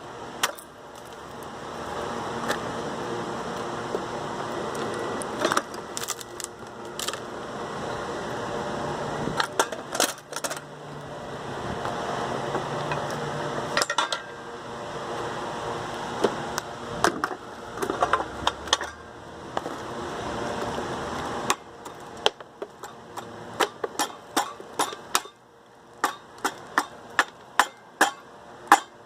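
Steady background noise with occasional clicks, then a run of sharp metallic clinks and taps, about one to two a second, from handling tools and hardware during exothermic welding of copper to rebar.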